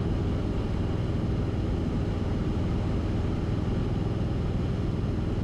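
Steady drone of a Cessna 172RG's four-cylinder Lycoming engine and propeller heard inside the cabin, running at reduced power on final approach.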